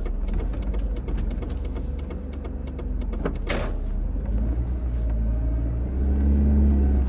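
A steady low rumble with many small clicks over it and one louder click about three and a half seconds in; the rumble grows louder near the end.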